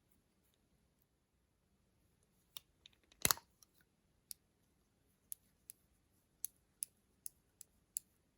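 A loud double knock about three seconds in, then a run of about nine sharp clicks, roughly two a second, near the end.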